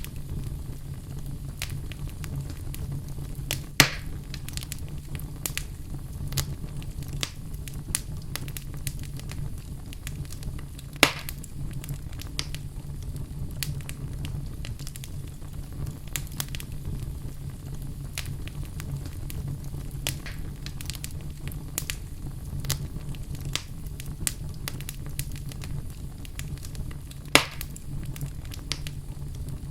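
Wood fire burning in a fireplace: a steady low rumble of the flames with irregular crackles throughout and three louder sharp pops, about 4, 11 and 27 seconds in.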